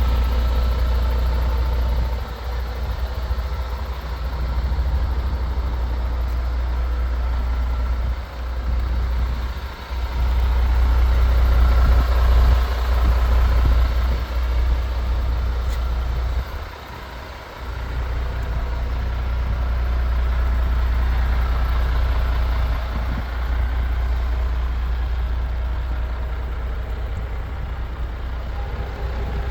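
MAN TGS 18.430 truck's six-cylinder diesel engine idling steadily, a deep low rumble that drops briefly a few times.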